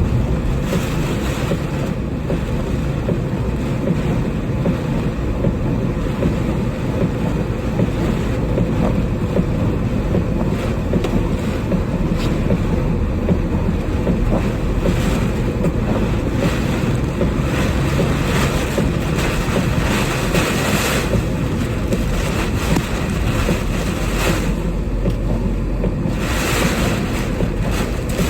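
Strong typhoon wind buffeting the microphone: a steady low rumble with gusts of hiss swelling up around the middle and again near the end.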